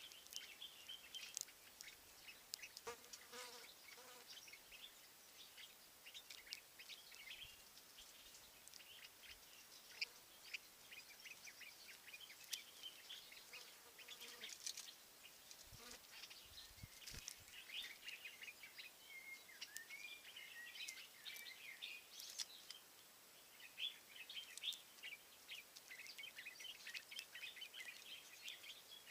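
Faint wild birdsong: several small birds chirping and singing at once in many short, high calls that overlap.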